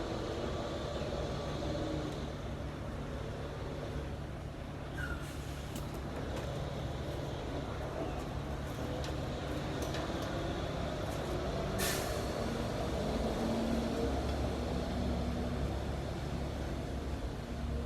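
Heavy diesel engine idling steadily, with a short hiss of released air about twelve seconds in and a few light clicks.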